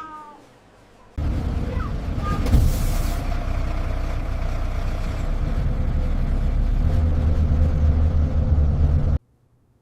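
Bus engine and road rumble heard on board a moving bus, starting suddenly about a second in and cutting off abruptly near the end, with a short hiss of air brakes about two and a half seconds in.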